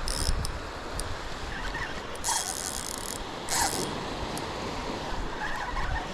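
Fishing reel ratcheting in short rattling spells while a stingray is being fought on the line, over the steady wash of surf.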